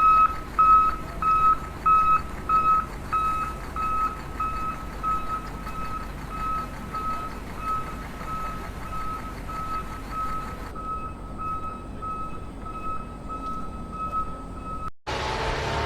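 Electronic beeper sounding short beeps at one steady pitch, about three a second, growing gradually fainter. Near the end it cuts off abruptly and a louder noisy stretch with a low rumble takes over.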